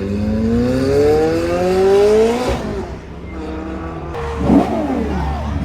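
Car engine under hard acceleration, rising steadily in pitch for about two and a half seconds before backing off. Near the end come quick, sharp rises and falls in pitch.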